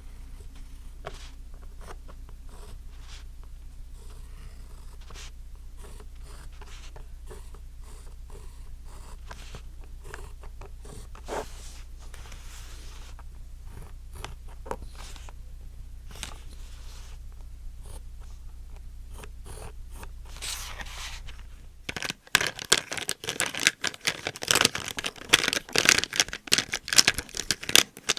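ASMR trigger sounds from objects handled close to the microphone: sparse soft taps and scratches over a low steady hum, then about 22 seconds in a switch to much louder, dense, rapid clicking and crackling.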